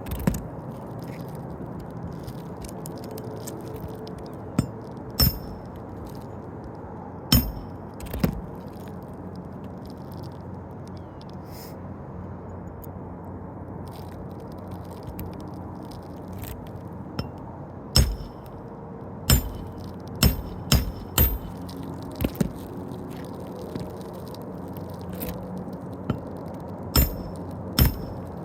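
Irregular sharp clicks and taps as asphalt roof shingles are handled and worked loose during a repair attempt, with a cluster of them near the end, over a steady low background noise.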